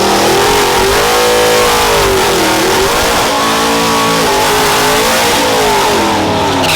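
A car engine revving hard at high rpm. Its pitch climbs, dips briefly about two and a half seconds in, rises again and falls away near the end, then cuts off suddenly.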